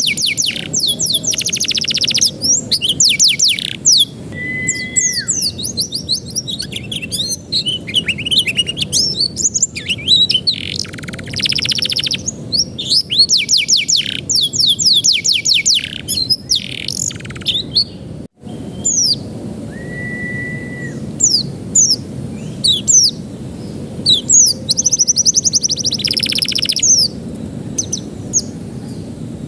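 Domestic canary singing: fast trills of rapidly repeated, downward-sweeping notes, broken by a few short held whistles, over a low steady background noise. The song cuts out for an instant a little past halfway.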